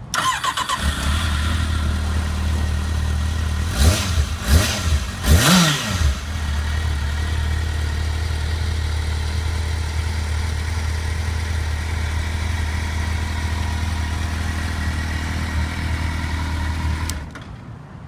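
Kawasaki ZR750S 748cc inline-four motorcycle engine starting on the starter and settling into a steady idle. It is revved three times in quick succession about four to six seconds in, then idles again until it is switched off near the end.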